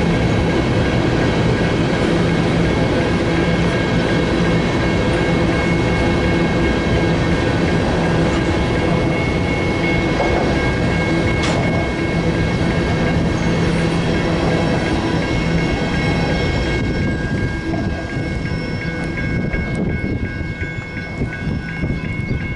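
Grain train's freight cars rolling past on the rails: a steady rumble with some clickety-clack and thin, steady high-pitched ringing tones. The sound eases off over the last few seconds.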